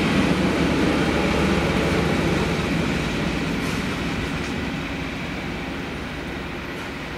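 Passenger train with a diesel locomotive at its end running past a level crossing and moving away, its rail rumble fading steadily.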